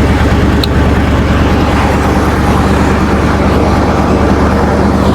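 An engine running at a steady speed, a constant low hum without change.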